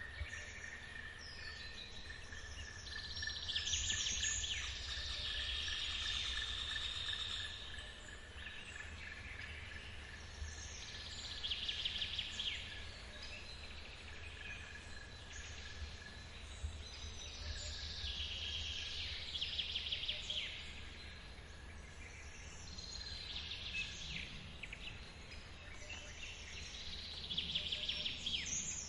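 Songbirds singing about five separate high-pitched phrases, the longest a few seconds in, over a steady low rumble of forest waterfall water. A thin, steady insect trill runs through the first half and fades out.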